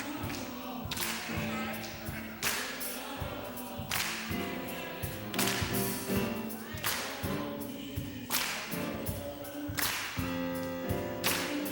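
Gospel music with singing and held chords, driven by a heavy beat: a sharp, ringing hit lands about every second and a half.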